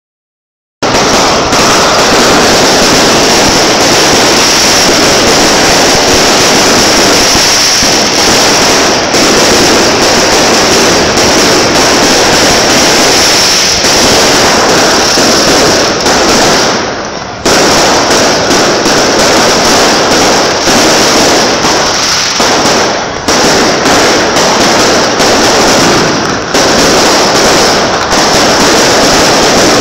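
A barrage of beehive rockets: thousands of bottle rockets and firecrackers going off in a dense, nonstop, very loud crackle, starting about a second in and easing only briefly a few times.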